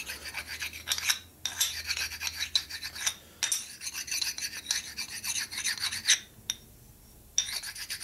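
Hand stone rubbed back and forth over a Panhead rocker arm in quick gritty scraping strokes, cleaning up rough machining and knocking down high spots. The strokes stop for about a second near the end.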